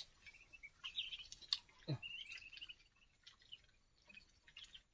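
Birds chirping in short, high notes throughout, with a few faint clicks.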